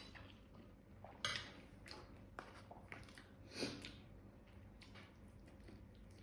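Faint chewing with a few soft clicks and taps spread through, about three of them, over quiet room tone.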